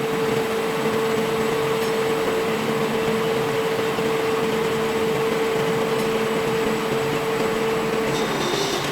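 Machine tool running with a steady hum over a wash of noise; its pitch dips slightly near the end.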